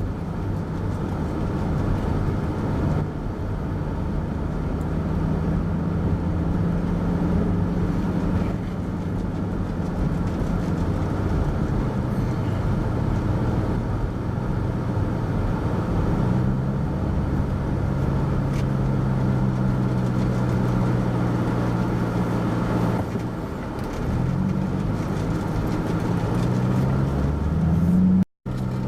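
Car engine and road noise heard from inside the cabin while driving slowly, the engine's hum shifting in pitch as it speeds up and eases off, rising near the end. The sound cuts out completely for a moment shortly before the end.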